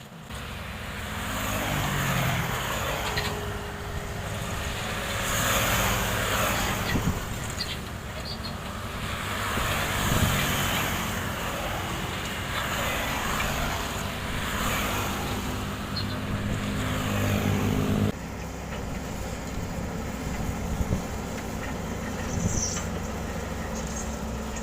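Heavy diesel construction machinery running, its engine noise swelling and easing every few seconds as it works under load. The sound changes abruptly about three-quarters of the way through, to a steadier, quieter engine drone.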